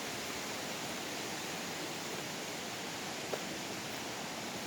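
Steady rushing of a mountain creek, an even hiss of water with no rise or fall, and a faint tick a little over three seconds in.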